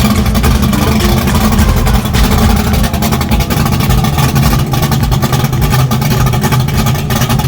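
The engine of a 1974 Camaro drag car running loud and rough, a dense rumble with rapid irregular pulses.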